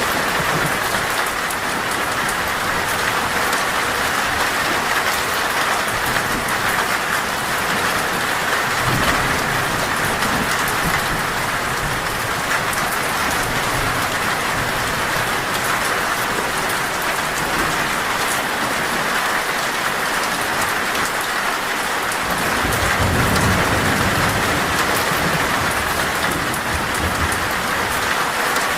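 Heavy rain falling steadily on a metal roof, with low rolls of thunder: a short one about a third of the way in and a longer, louder one about three-quarters of the way through.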